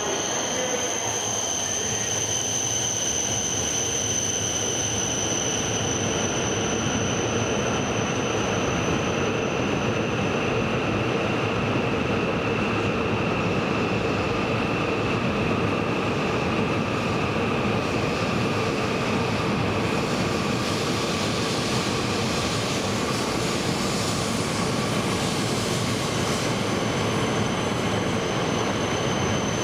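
E5 series Shinkansen train arriving at the platform: a steady rush of running noise with high whining tones, one of them easing slowly down in pitch as the train slows.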